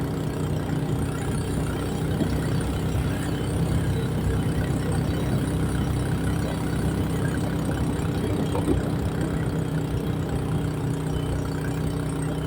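A vehicle's engine running steadily with a constant low hum, as heard while riding along.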